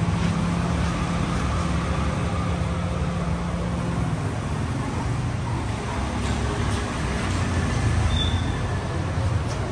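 A vehicle engine running steadily, a low hum under a haze of noise; the hum drops a little in pitch about four seconds in.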